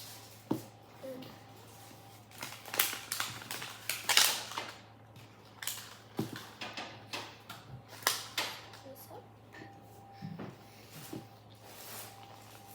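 Plastic packaging being peeled open and handled by hand: irregular crinkling and crackling with sharp plastic clicks.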